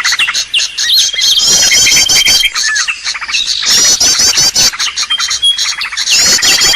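Birdsong lure recording (suara pikat): dense high chirps and fast trills with a held thin whistle, the pattern repeating every two to three seconds like a loop.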